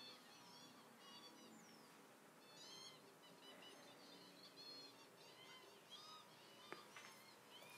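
Faint twittering of several birds, with many short overlapping chirps at different pitches, and a single faint click near the end.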